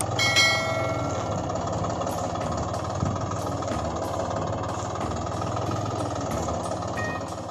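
Steady engine-like running sound of a toy construction vehicle, with a few brief held tones in the first second.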